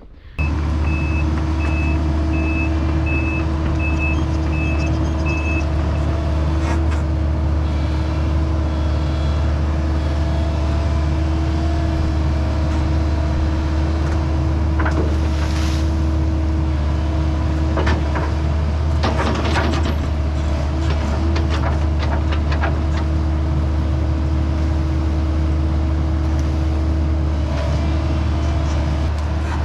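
Excavator's diesel engine running steadily, with its travel alarm beeping for the first few seconds and occasional metal clanks.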